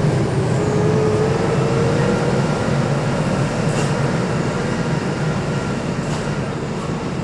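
Loaded dump truck running down a steep descent: a steady low engine drone with a sustained whine that rises slightly, and a couple of faint ticks.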